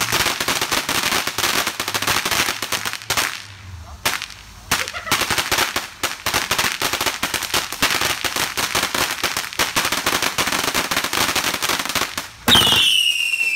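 Firecrackers going off in a long, rapid, continuous string of cracks, with a brief lull about four seconds in. Near the end a louder bang and a whistle falling in pitch.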